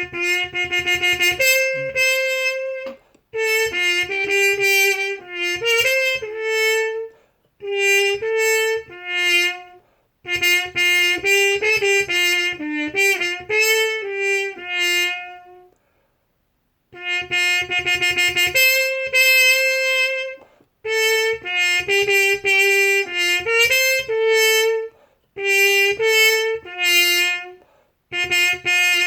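Solo trumpet playing a melody in short phrases of a few seconds, separated by brief pauses, with a longer pause a little past halfway.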